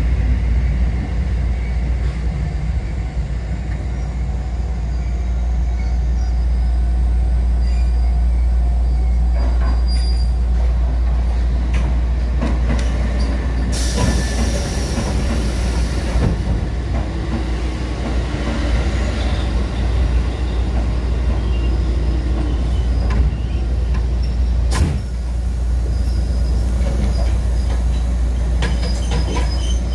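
Kotoden 1080-series electric train heard from the cab: a steady low running rumble with wheel-on-rail noise and some wheel squeal. A burst of hiss lasts about two seconds near the middle, and there is a single sharp click later on.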